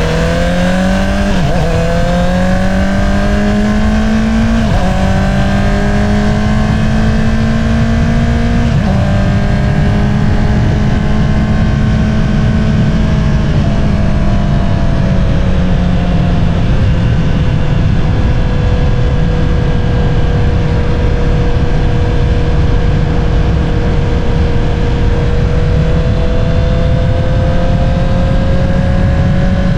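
2022 Honda CBR650R's inline-four engine through an Akrapovič single-outlet exhaust, accelerating hard with quick upshifts about 1.5, 5 and 9 seconds in. It then cruises at steady revs, eases off slightly around the middle and builds revs slowly again near the end.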